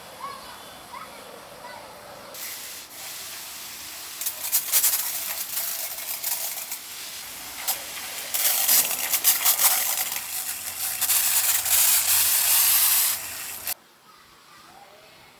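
A loud hiss with crackles, starting about two seconds in, getting louder about eight seconds in and cutting off suddenly near the end.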